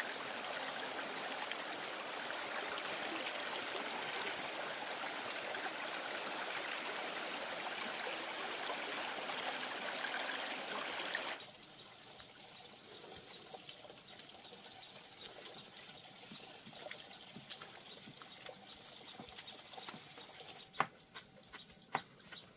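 Mountain stream water running and trickling, cutting off abruptly about halfway through to a quieter background. A few sharp knocks come near the end.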